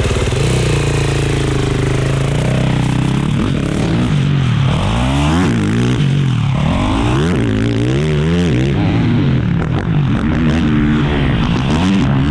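Four-stroke race quad engine on the track, revving hard and backing off again and again, its pitch climbing and dropping several times as it accelerates and shifts.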